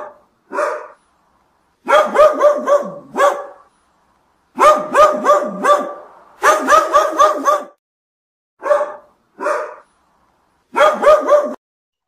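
Dog barking in quick, high-pitched runs of several barks each, about five barks a second, with short pauses between the runs.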